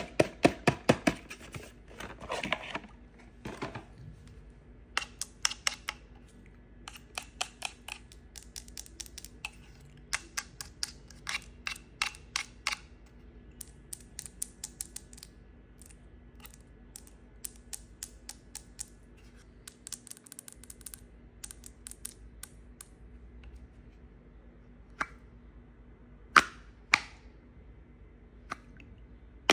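Knife cutting through dry soap: runs of quick, crisp clicking cuts, several a second, with pauses between runs and a few single sharper cuts near the end.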